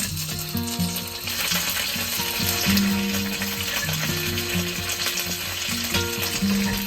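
Gyoza sizzling as they fry in a pan, the hiss growing denser about a second in, under background music.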